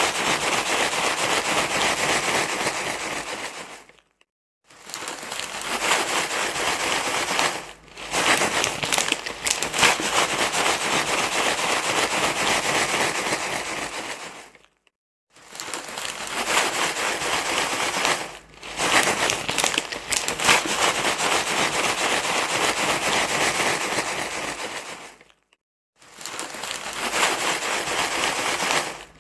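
Loud, continuous crinkling rustle, a baby-soothing sound, running in long stretches broken by short silences about four, fifteen and twenty-five seconds in.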